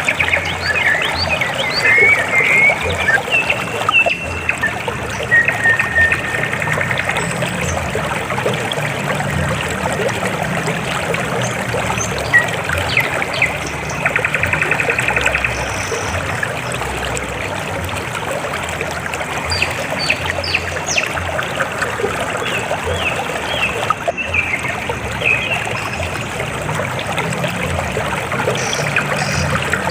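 River water flowing and trickling steadily, with small birds chirping and trilling over it.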